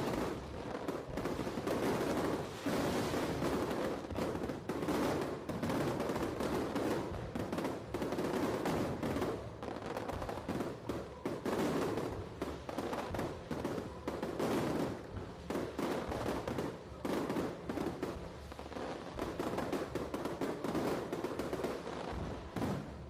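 Aerial fireworks going off in a rapid, unbroken barrage of bangs and crackles, thinning out slightly near the end.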